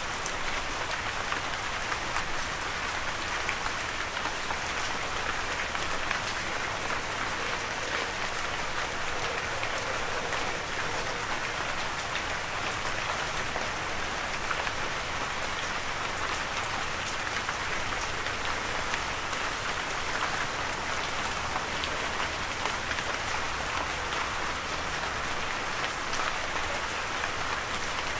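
Steady rain falling on a surface: a dense, even patter of many small drops.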